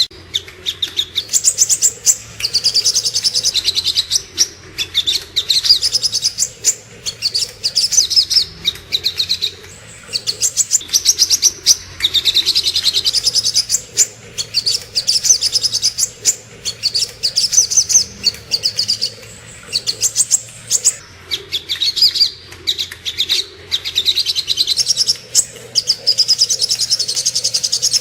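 Sogok ontong (brown-throated sunbird) singing: rapid, high-pitched chirping trills in phrases of one to three seconds with short pauses between, repeated over and over, as played for masteran song-tutoring.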